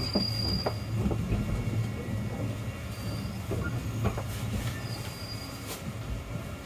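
651-series limited express train heard from inside the car as it runs slowly into the Ueno terminal platform. A steady low rumble is joined by a thin, high wheel squeal that fades about a second in and returns briefly twice, with a few clacks over the rail joints. The sound grows quieter as the train slows toward its stop.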